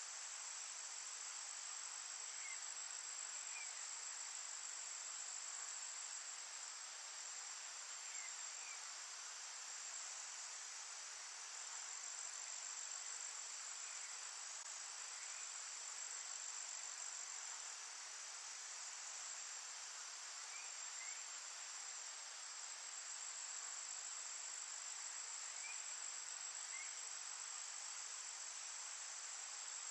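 Forest insects trilling in a steady, unbroken high-pitched drone. Faint pairs of short chirps come in about every six seconds.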